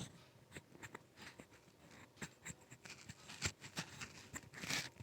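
Faint scattered clicks and scratchy rustles, with a brief louder scrape near the end.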